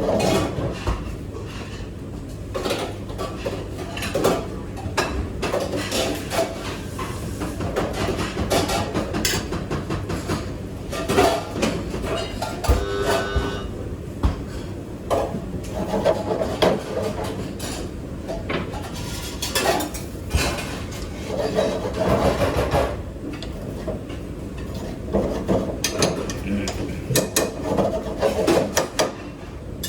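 Kitchen clean-up: irregular clatter and knocks of dishes, pots and utensils being handled and put away, with some rubbing and scraping between the knocks.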